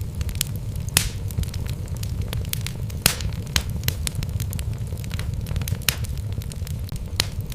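Wood fire burning in a fireplace: logs crackling with sharp, irregular pops over a steady low rumble of the flames, the loudest pops about a second in, three seconds in and near the end.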